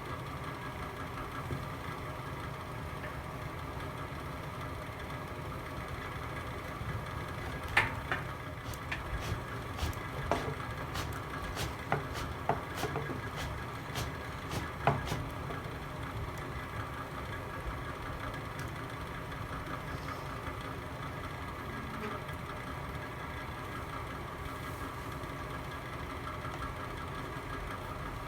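Fire burning in a fireplace with a steady low rumble. A run of sharp crackles and pops comes between about 8 and 15 seconds in.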